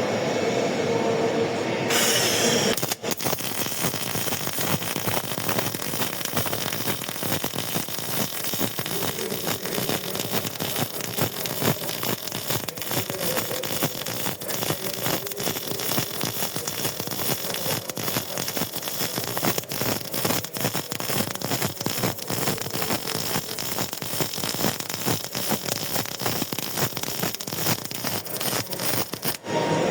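Robotic arc welding: the arc of an ESTUN CO-ARC 350 welding cobot crackling steadily as it lays a bead joining two steel plates. The arc strikes about two seconds in and cuts off just before the end.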